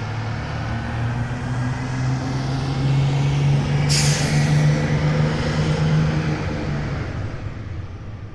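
Bus engine running with a steady low hum. It grows louder toward the middle and then fades away. About four seconds in comes a sharp hiss of air, like an air brake releasing.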